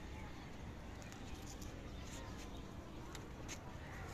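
Faint outdoor background: a few short, high bird chirps over a low steady rumble.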